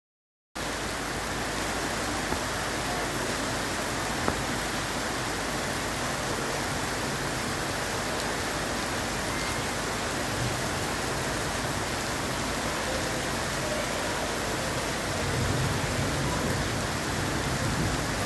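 Steady hiss of rain falling, with a low rumble that swells about fifteen seconds in.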